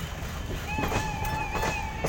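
Passenger train coaches rolling slowly past, wheels knocking over rail joints over a steady rumble. A wavering high tone comes in under a second in and holds for over a second.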